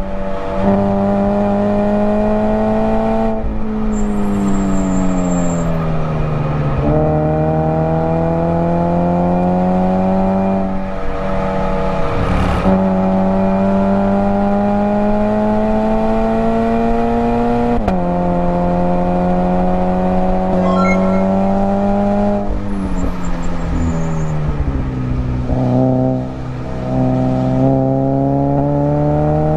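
Toyota GT86's 2.0-litre flat-four boxer engine, heard from inside the cabin, driven hard through the gears of its automatic gearbox. The revs climb slowly in each gear and drop sharply on upshifts. They slide down under braking and step back up on downshifts, with a brief thump about twelve seconds in.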